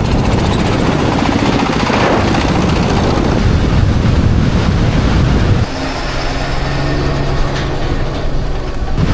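Loud, rough rumbling of a vehicle under way, with wind buffeting the microphone. About five and a half seconds in it drops abruptly to a slightly quieter rumble with a steady low hum.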